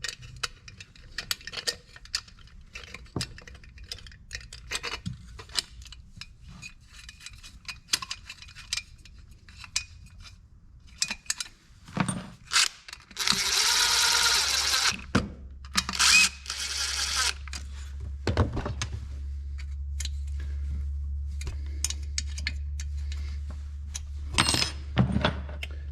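Small metal chainsaw parts and hand tools clicking and clinking while the muffler is fitted. About halfway through come two loud rushing bursts, and a steady low hum starts under them and runs on.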